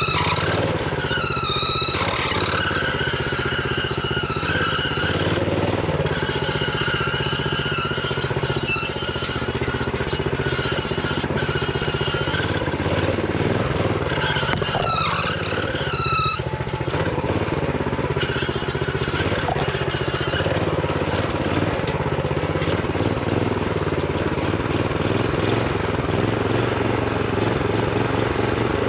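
Honda GX390 single-cylinder four-stroke engine on a minibike running under way, its note rising and falling with the throttle, with quick swoops in pitch about a second in and again around halfway. Its revs are held down by a throttle stop screw set to limit engine rpm.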